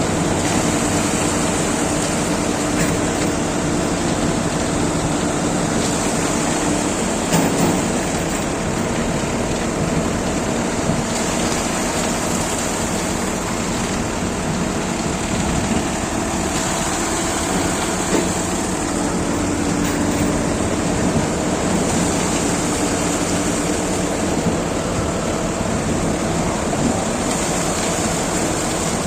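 Heavy construction machinery engines running steadily during a concrete pour into a pile.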